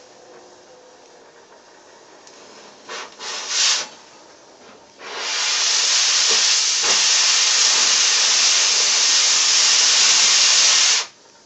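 Oxy-fuel cutting torch hissing: two short blasts about three seconds in, then a loud steady hiss of the cutting oxygen jet for about six seconds that cuts off suddenly near the end.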